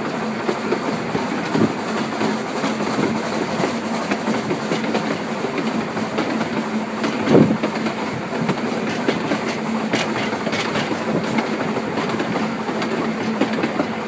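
Narrow-gauge passenger train running along the track, heard from an open carriage: a steady wheel-on-rail noise with a low hum, and one louder knock about halfway through.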